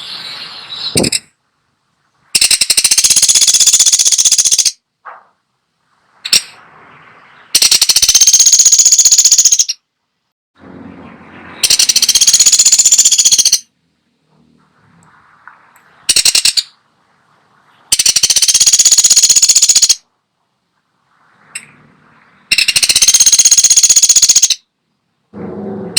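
Pelatuk sampit woodpecker giving long, rapid rattling calls, about two seconds each, repeated five times with pauses of a few seconds between, plus a couple of brief rattles in the gaps.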